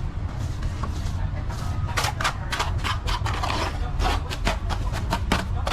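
Plastering trowel work on a wall: a quick run of short scraping and tapping strokes from about two seconds in, over a steady low rumble.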